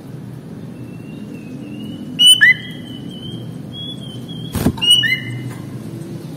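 Sooty-headed bulbul (kutilang) singing: a long, clear held whistle, broken by sharp, louder whistled phrases about two seconds in and again near five seconds. A sharp click comes about four and a half seconds in, over a low steady hum.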